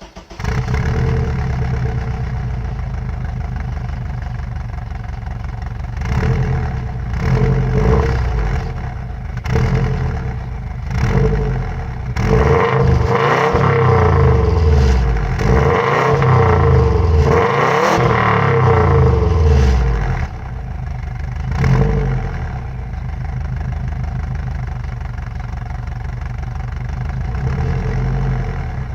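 Subaru Forester flat-four boxer engine through its stock exhaust, idling and then revved repeatedly. The revs rise and fall several times, the biggest ones in the middle, with one more short blip before it settles back to a steady idle.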